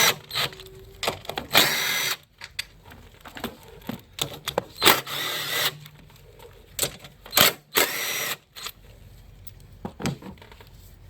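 Cordless power tool with a 10 mm socket running in short whirring bursts, backing out bolts one after another, with small clicks and rattles between the bursts.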